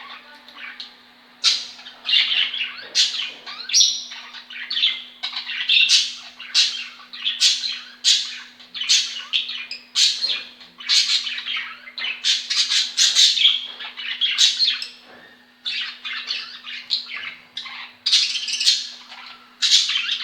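Small birds chirping and squawking over and over, about one to two harsh calls a second, with a steady low hum underneath.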